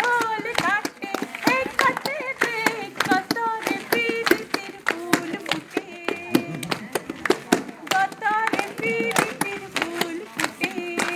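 A group of voices singing together with hand-clapping keeping a steady beat.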